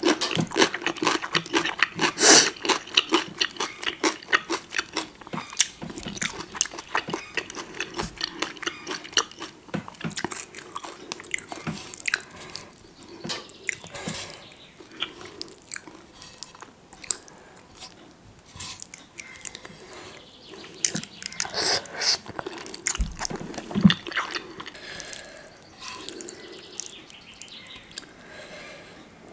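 Close-miked wet chewing and biting of saucy noodles and toppings: many quick mouth clicks and smacks, thickest in the first few seconds and again in bursts later on.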